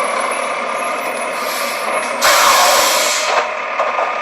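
A toy garbage truck's electronic sound effect playing a recorded truck noise through a small speaker, thin with no low end, with a louder hiss like an air brake release about two seconds in.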